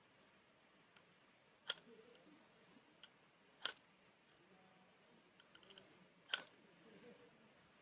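Three sharp clicks or snaps about two seconds apart, with a few fainter ticks between them, over a quiet background.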